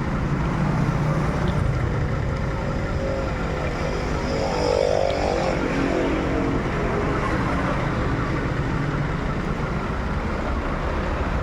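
Motorcycle engine idling steadily. A higher-pitched sound swells and fades near the middle.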